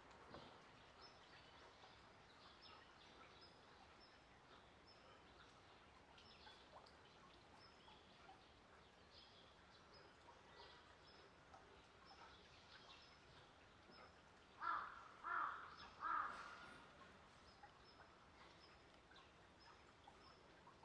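Quiet outdoor background with small birds chirping faintly again and again. About two-thirds of the way through, a louder bird calls three times in quick succession.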